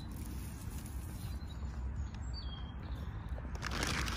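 Faint, short chirps of small birds, twice, over a steady low rumble, with a rush of noise near the end.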